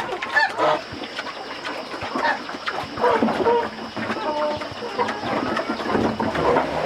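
Birds calling in short, scattered calls, over many small clicks and knocks.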